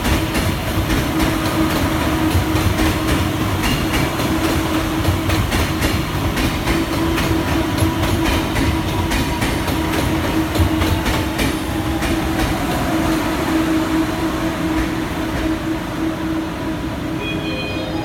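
Guangzhou Metro Line 1 train running: a steady rumble of wheels on the track under a constant hum. A faint whine slides down in pitch in the second half, as heard when the train slows.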